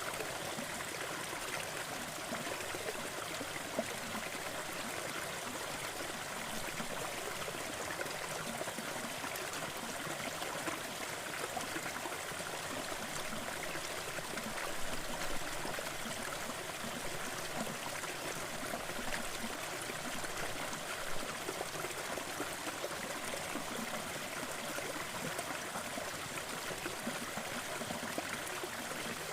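Wood fire crackling in a fireplace, a few soft pops scattered over a steady, even rushing hiss of added noise.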